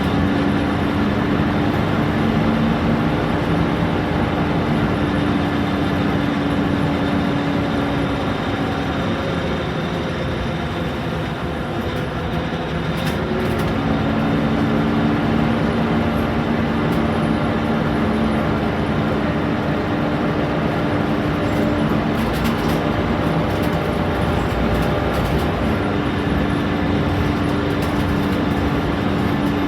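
Scania K230UB Omnilink single-decker bus running along: its five-cylinder diesel and driveline give a steady hum with a constant whine, which fades briefly about ten seconds in and then returns.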